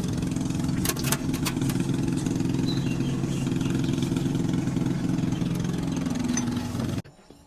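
An engine idling steadily, with a few sharp metallic clicks about a second in; the engine sound stops abruptly near the end.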